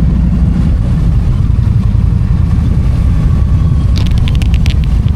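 Indian motorcycle riding at speed, its engine and wind making a loud, steady low rumble. A quick run of sharp clicks comes about four seconds in.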